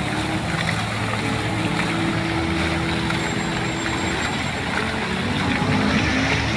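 Motorboat engine running steadily, with a few low tones that shift slightly, over a wash of water and wind noise.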